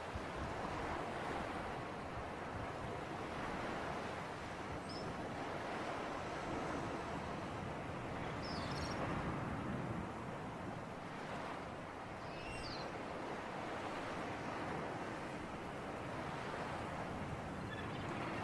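Sea surf and wind: a steady wash of waves that swells and eases every few seconds. A few faint, short high chirps come through it.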